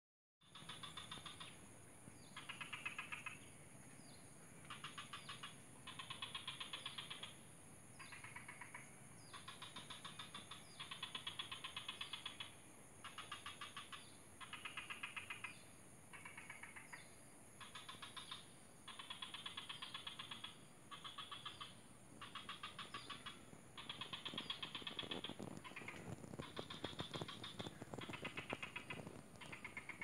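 A paddy-field bird gives rapid rattling trills in repeated bouts of about a second each, some higher and some lower in pitch, over a steady high-pitched hiss. Near the end there is some low rustling.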